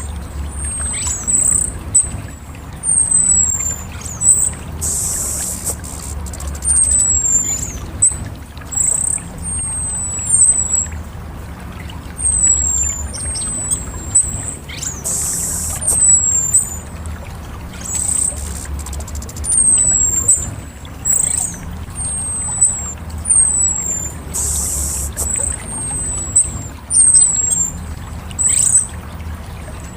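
Orange-headed thrush singing a long run of short, very high whistled notes that slide downward, one or two a second, over a low rumble. Three brief hissing bursts come between the notes, near 5, 15 and 25 seconds in.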